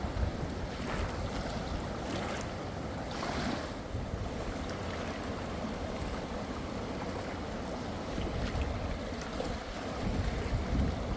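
Strong wind buffeting the microphone with a low, steady rumble, over the wash of sea waves that surges a couple of times early on.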